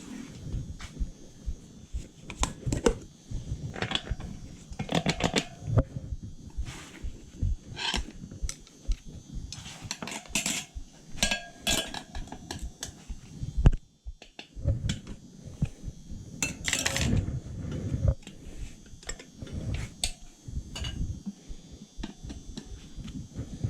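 Metal hand tools clinking and knocking irregularly against the dirt bike's rear wheel and tire parts, with a brief pause about 14 seconds in.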